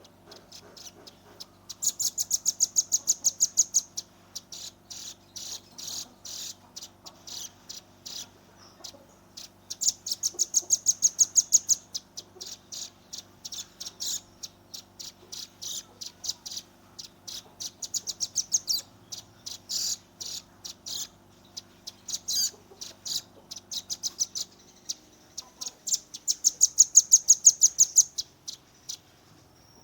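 Young velvet-fronted nuthatch (rambatan paruh merah) giving rapid high-pitched trills, the "tembakan" call, in four fast bursts of about two seconds each. Slower separate high notes come in between. A faint steady low hum lies underneath and stops near the end.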